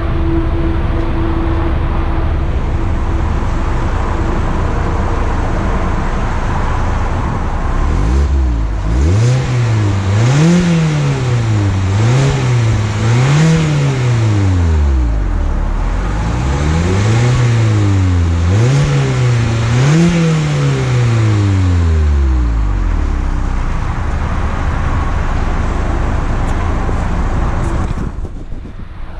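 2020 Mazda MX-5 Miata's four-cylinder engine heard at the exhaust, idling, then revved in two sets of three rises and falls, about 8 and 16 seconds in, before settling back to idle.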